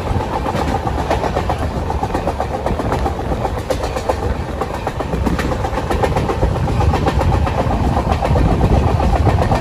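Passenger train running at speed, heard from beside the coach: a steady rumble of wheels on the rails with a dense, rapid clatter of clicks.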